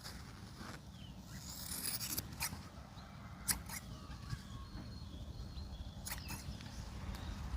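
Scattered small clicks and scrapes of hand work on scooter carburetor parts, with one sharper click about three and a half seconds in.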